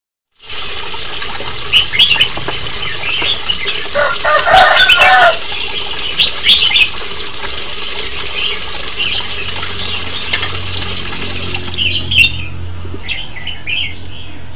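Red-whiskered bulbul giving short chirping calls over a steady hiss, with a louder flurry of sound about four to five seconds in.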